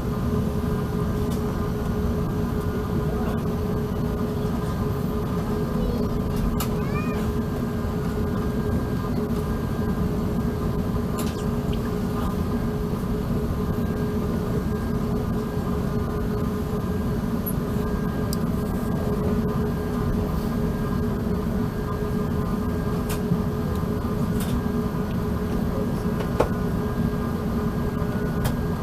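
Steady Airbus A380 cabin noise: a dense low rumble with a constant hum and higher steady tones. A few faint, brief chirps and ticks sound over it.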